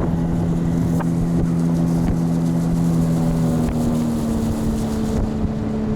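Motorboat engine running steadily under way, with water and wind rush. Its tone shifts slightly a little past halfway.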